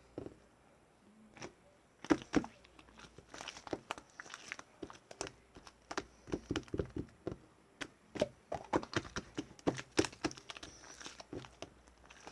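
Marbling slime being handled: a dense run of sticky clicks and small pops as it is squeezed and stretched, starting about two seconds in.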